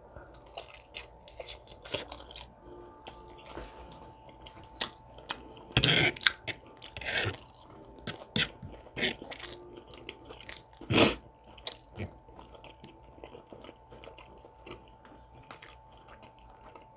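Close-miked chewing and biting of an air-fried chicken drumstick: irregular wet mouth clicks and crunches, with louder bites about six and eleven seconds in.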